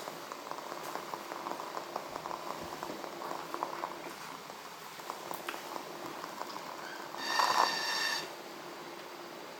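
Wooden-wick candle burning with a soft, irregular crackle of small pops. About seven seconds in, the wick gives a high whistling squeal lasting about a second, the loudest sound here.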